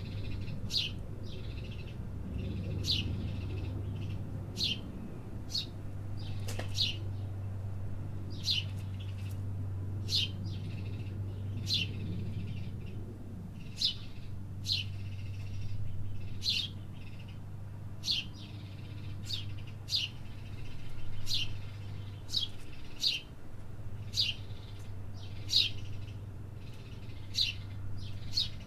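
Small birds chirping in short, sharp, repeated notes, roughly one a second, over a steady low hum of city background.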